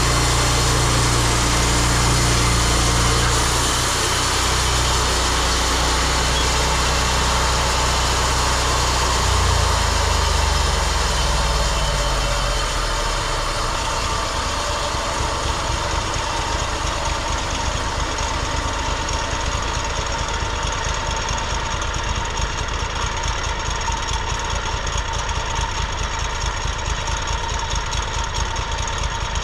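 Sawmill's gas engine running at speed, then slowing down about ten seconds in and settling into a steady idle with a fast, even pulsing beat.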